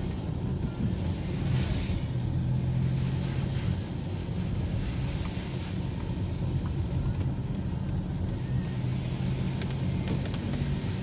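Car driving along a road: a steady low engine hum with road and tyre noise.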